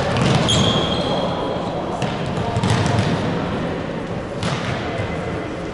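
Football being kicked and bouncing: a few sharp knocks over the steady noise of players and onlookers, with a brief high squeak soon after the start.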